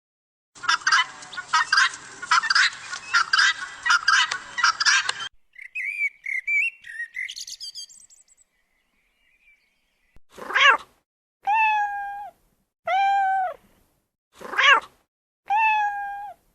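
A run of animal calls from different animals: about five seconds of dense, rapid chattering, then a few seconds of short whistled notes. After a pause come short, clear meow-like calls, each rising and then falling in pitch, about one every second and a half, with two harsher, scratchy calls among them.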